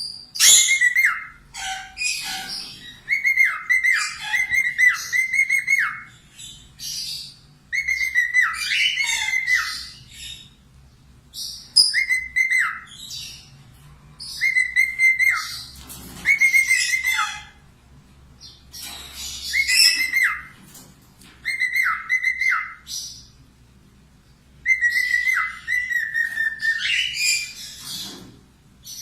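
Caged bird singing in repeated bursts: clear whistled notes that dip in pitch, with rapid chattering above them, about every two to three seconds with short pauses between. A constant-singing bird of the kind played as a song tutor for cockatiels and budgerigars.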